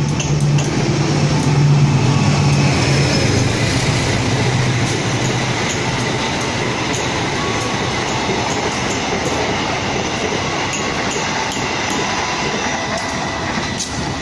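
Passenger train coaches running past on the rails: a steady rumble of wheels on track, with a low engine hum that fades about four seconds in.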